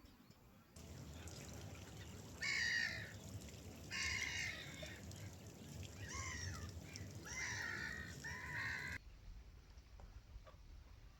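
Gulls calling: about five harsh calls, a second or two apart, over a steady low rush of background noise that starts about a second in and cuts off suddenly near the end.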